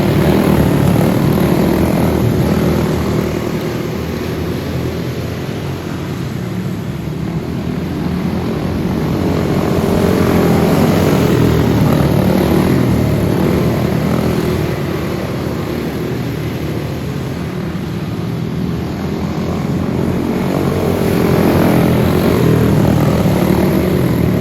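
Racing go-kart engines, Briggs & Stratton Animal four-stroke singles, running at speed. The drone swells and fades about every ten seconds as the karts come past and move away.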